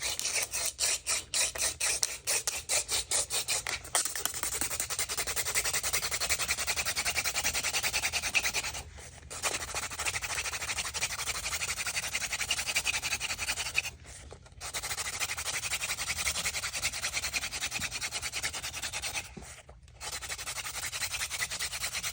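Hand drill friction fire: a wooden spindle twirled between the palms and rubbing in the notch of an elder and cedar hearth set to make an ember. It starts as short separate strokes, then becomes a continuous rasping rub, stopping briefly three times as the hands go back to the top of the spindle.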